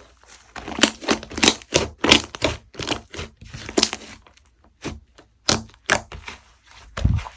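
Slime being pressed and squeezed by hand, giving an irregular run of sharp crackles and pops, with a duller thump near the end.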